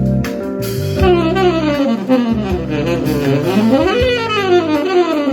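Saxophone playing fast chromatic runs: down in quick small steps, back up to a high note about four seconds in, then down again. Underneath is a calm backing track with steady held chords.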